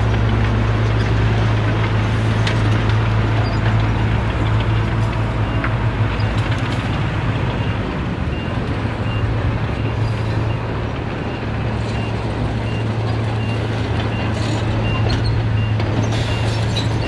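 Heavy diesel engine of earth-moving machinery running steadily with a deep hum, joined about halfway through by a reversing alarm beeping at an even pace, roughly one to two beeps a second.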